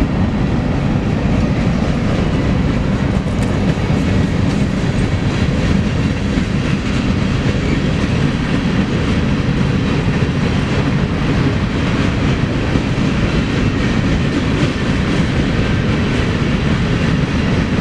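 BNSF freight train cars rolling past close by: a loud, steady noise of steel wheels running on the rails.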